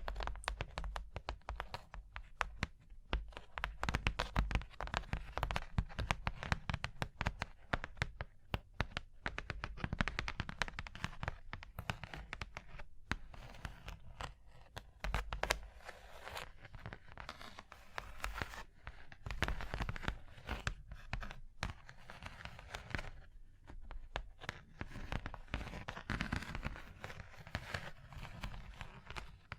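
ASMR tapping and scratching on objects: a dense run of quick clicks mixed with scratchy rustling.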